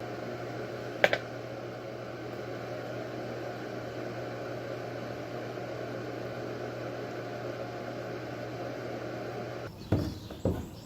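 Steady low machine hum with an even hiss, like a running fan or appliance, with one sharp click about a second in. Near the end it cuts to a few knocks.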